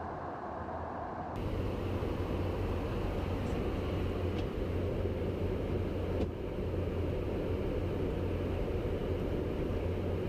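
Steady jet engine noise with a low hum, changing abruptly about a second in and again about six seconds in, as between edited clips.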